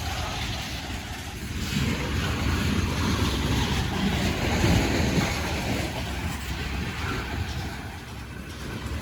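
Low, uneven rumble of a moving vehicle, with wind on the microphone.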